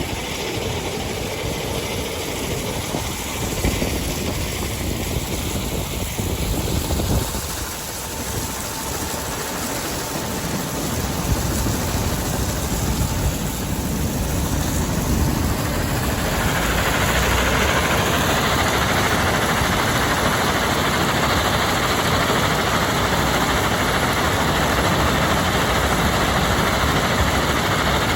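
Heavy diesel machinery running steadily at a rock crushing and screening plant, growing louder and harsher from about halfway through.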